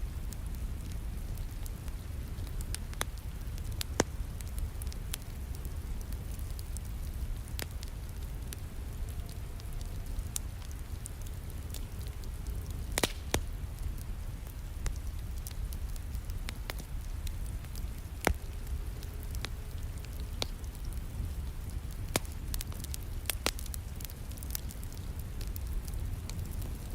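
Wood fire crackling with irregular sharp pops over a steady rumble of falling rain.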